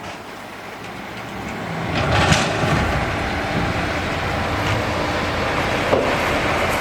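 Heavy earthmoving machinery at work: a diesel engine and a broad mechanical rumble grow louder about two seconds in, with a sharp clank, then hold steady.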